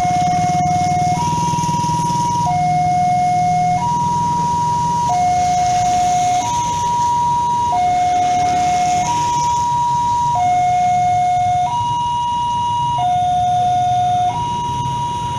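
Electronic two-tone warning alarm of a railway level crossing, sounding steadily and alternating evenly between a lower and a higher tone, each held just over a second.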